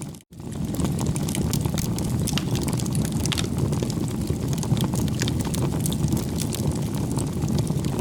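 Wood fire burning, with a steady low roar and a scatter of sharp crackles and pops. It cuts out for a split second just after the start, at a join between clips.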